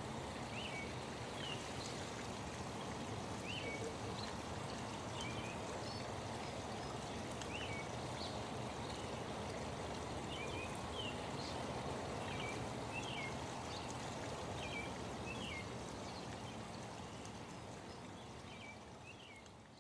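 Steady rush of flowing water with small birds chirping short, repeated calls about once a second, the whole ambience fading out near the end.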